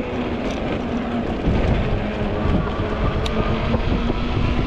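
Wind buffeting the microphone during an e-bike ride, heavier from about a second and a half in, over a steady hum from the Ecotric fat-tire e-bike's hub motor.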